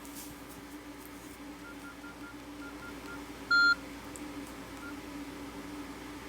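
Nokia E63 mobile phone key tones: a row of faint short beeps of one pitch, then one louder beep of about a fifth of a second about three and a half seconds in, and one more faint beep shortly after, over a steady low hum.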